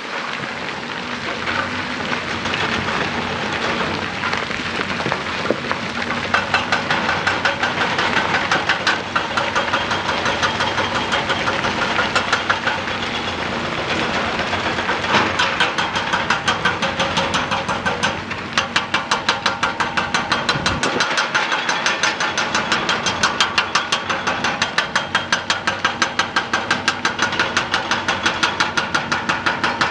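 Excavator-mounted hydraulic rock breaker hammering rock in a fast, even rhythm of several blows a second over the excavator's running engine. The hammering starts about six seconds in and breaks off briefly around eighteen seconds.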